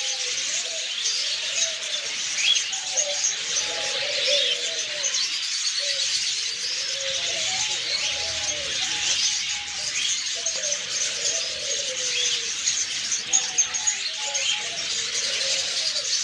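Many small caged birds chirping and twittering at once, a dense continuous chatter.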